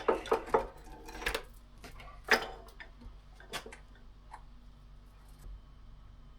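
Loose chainsaw chain clinking as it is handled: a quick run of light metal clicks in the first second and a half, one sharp clink a little after two seconds, then a few scattered ticks.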